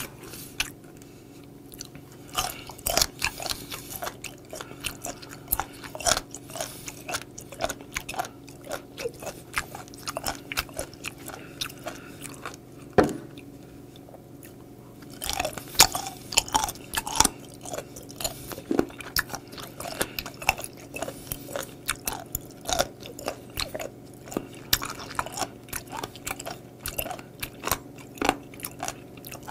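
Close-miked chewing of raw sea cucumber: crisp, crunchy bites and a steady run of wet crackling chews. About halfway through there is one sharp click, followed by a short lull before the next mouthful.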